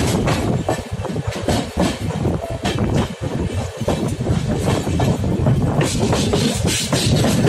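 Passenger train coaches running, with a steady rumble and rush of wheels on track and an irregular clickety-clack as the wheels cross rail joints and points, heard from an open coach door.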